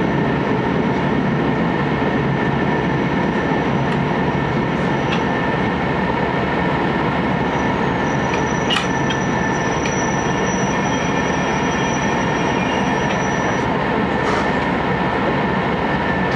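Inside an Aizu Railway AT700 diesel railcar slowing to a stop at a station platform: a steady rumble of engine and running gear. For about five seconds in the middle a thin high squeal sounds as it brakes, with a couple of sharp clicks.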